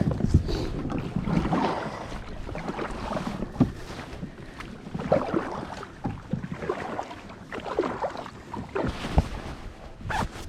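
A kayak being handled in the water: irregular sloshing and rustling with a few sharp knocks on the hull, as the fish-finder transducer is put into the water to get it wet.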